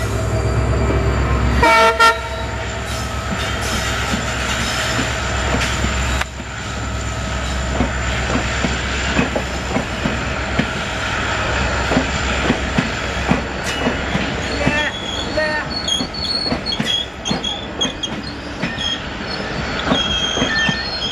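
An Indian Railways diesel passenger train passes close by while accelerating. Its horn sounds a chord of several steady tones and cuts off about two seconds in. The deep rumble of the WDP4 locomotive follows, then the coaches roll past, their wheels clacking over rail joints and points, with short high wheel squeals in the second half.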